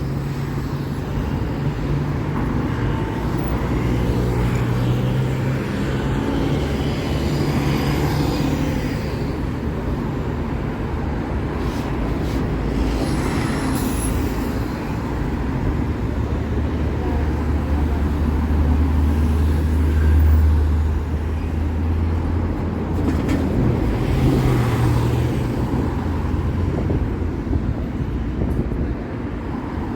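City street traffic with cars passing. A heavier vehicle's engine drones low for several seconds around the middle.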